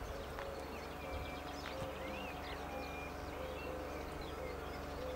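Birds chirping and calling, with a low curved note repeating over and over, above a steady low background rumble.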